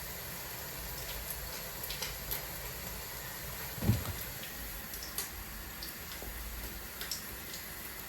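Cottage cheese pancakes (syrniki) frying in hot oil in a pan: a steady sizzle with scattered sharp pops, and a short falling sound about four seconds in.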